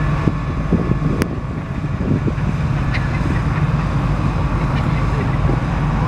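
An engine running steadily with a low rumble, with voices in the background and one sharp click about a second in.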